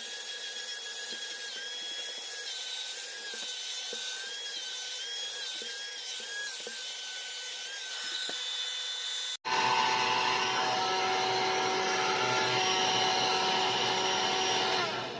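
Bosch Flexxo cordless stick vacuum running with a steady high whine that wavers slightly in pitch, with rubbing noise over it. About nine seconds in it cuts abruptly to a louder run with a lower whine, which dies away near the end.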